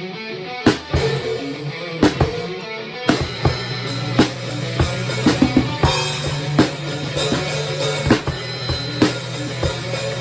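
Fast heavy metal with a prominent drum kit, kick and snare hits in a steady driving beat, over sustained distorted guitar and bass notes.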